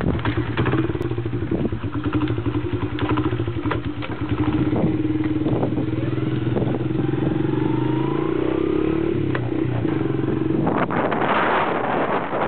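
Honda CRF70F's small single-cylinder four-stroke engine running as the dirt bike is ridden, its pitch wavering with the throttle. A louder rushing noise comes in near the end.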